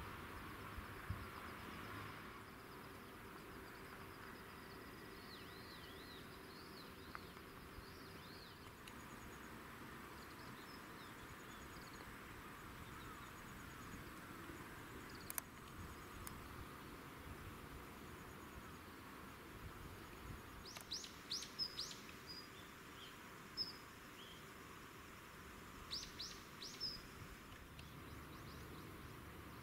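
Quiet rural outdoor ambience with small birds calling now and then: faint high calls in the first ten seconds, then runs of quick, high chirps about two-thirds of the way through and again near the end. A single sharp click sounds about halfway.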